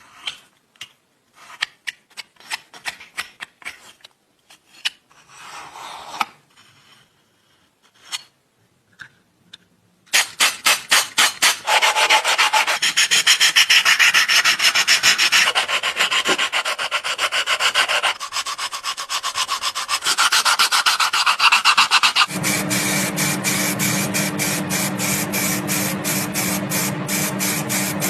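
Scattered clicks and scrapes of small parts being handled, then rapid back-and-forth hand sanding at about five strokes a second, loud and rhythmic. In the last several seconds a steady low hum runs under the strokes.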